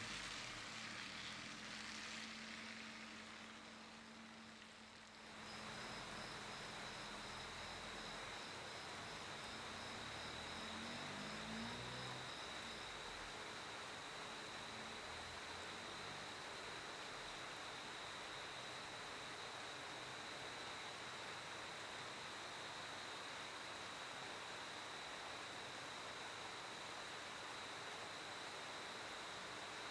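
Crickets trilling in one steady high tone against a constant hiss of night air. A second insect chirps rapidly at a slightly higher pitch for the first several seconds. At the start, a passing vehicle fades away.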